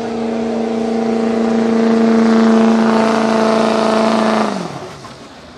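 Street 4x4 pickup truck's engine held at high revs under full load while pulling the sled, growing louder as it comes closer. About four and a half seconds in the throttle lifts and the revs fall away quickly, the end of the pull.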